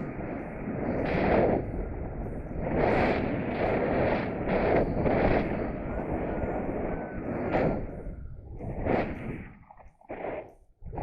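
Wind buffeting the microphone in gusts during a paraglider flight, surging and easing every second or so and dropping away briefly near the end, with a few faint short beeps from the flight variometer.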